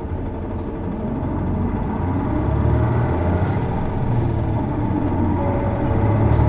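Isuzu Erga city bus's diesel engine heard from inside the cabin, building up as the bus accelerates away from a stop, then pulling steadily. This engine is known for a peculiar odd noise that is typical of PKG-era Ergas.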